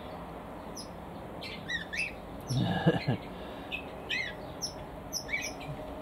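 Small aviary birds chirping repeatedly in short high notes, with one louder, lower bird call about halfway through.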